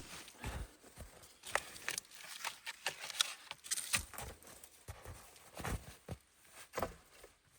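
Irregular crunching steps or knocks in snow, about a dozen spread unevenly, typical of someone walking or working in the snow.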